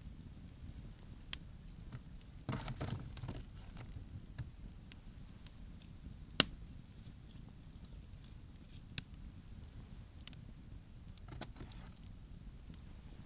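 Wood fire crackling: scattered sharp pops, the loudest about six seconds in, over a low steady background, with two short noisy stretches, one about two and a half seconds in and one near the end.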